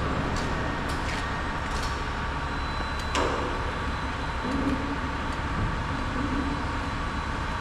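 A vehicle engine running steadily, with one sharp clank about three seconds in.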